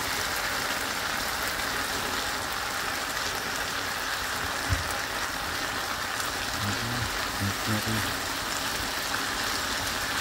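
Chicken and diced vegetables sizzling steadily in a hot pan as they are stir-fried, with a single sharp knock about halfway through.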